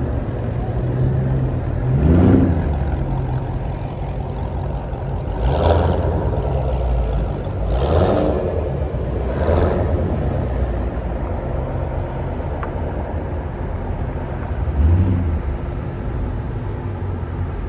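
V8 muscle-car engine running at a steady drone, rising in pitch and surging louder five times in short bursts of acceleration.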